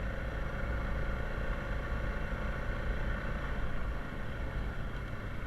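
Honda Rubicon 520 ATV's single-cylinder engine running steadily with a low rumble, easing off slightly about four seconds in.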